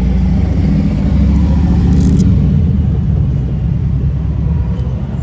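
Motorcycle engine idling with a steady, even rumble.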